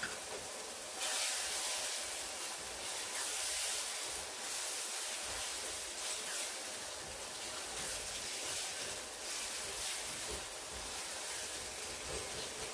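Beef keema with tomatoes and spices frying in a pot on high flame, sizzling steadily as it is stirred with a spatula; the sizzle grows louder about a second in.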